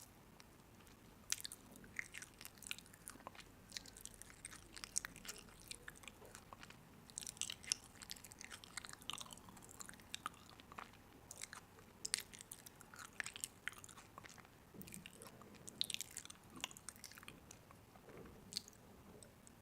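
Someone chewing crunchy food at close range: irregular crisp crunches and clicks, several a second.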